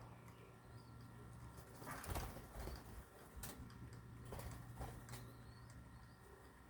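Birds calling softly, with several sharp clicks and rustles; the loudest comes about two seconds in.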